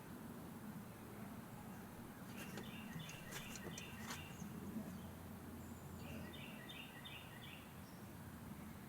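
Faint bird chirping: two short runs of quick repeated notes, a few seconds apart, over a low steady hum, with a handful of light clicks about three seconds in.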